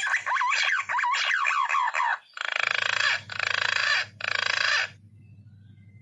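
Green pigeon calls: a run of wavering, gliding whistles for about two seconds, then three harsh buzzing trills, each under a second long, ending about five seconds in. A low steady hum lies underneath.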